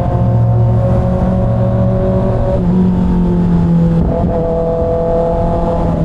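2024 Kawasaki ZX6R's 636 cc inline-four engine running at a steady low freeway speed. Its note dips slightly in pitch about two and a half seconds in.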